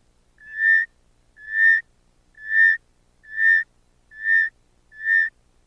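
Northern forest rain frog calling: a series of short, clear whistled notes, about one a second, each swelling in loudness and then ending abruptly. Six notes fall in this stretch.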